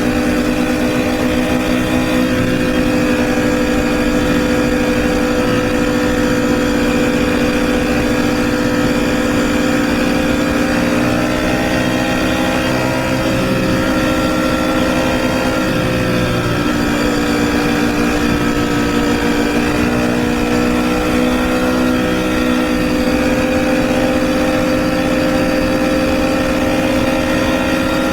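Motorcycle engine running at steady riding speed with rushing wind. Its pitch eases off slightly about halfway through, then climbs back up.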